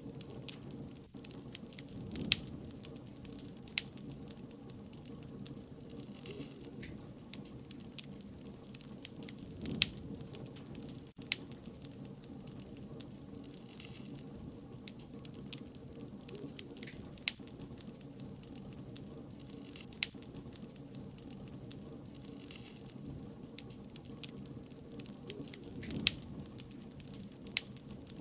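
Bonfire of burning wood crackling: a steady low rush of flame with irregular sharp pops and snaps, the loudest every few seconds.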